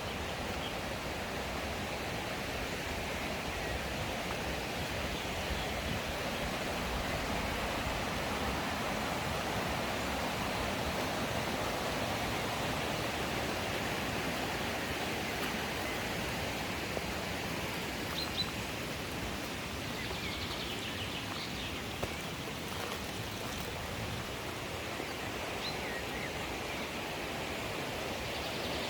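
Mountain stream rushing steadily over rocks, an even wash of water noise. A few faint high chirps come through now and then in the second half.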